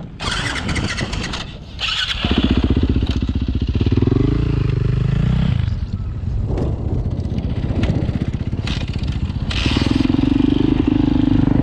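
Yamaha four-stroke single-cylinder dirt bike engine starting after a couple of seconds of clatter, blipped up and down, then revved to a higher steady note near the end.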